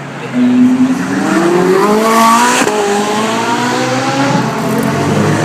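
Performance car engine accelerating hard, its revs climbing, then dropping sharply on a gear change about two and a half seconds in before climbing again.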